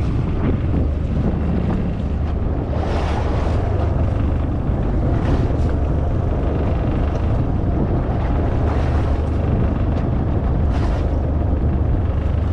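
Wind buffeting the microphone on a boat at sea, over a steady low rumble, with a few louder swells of noise.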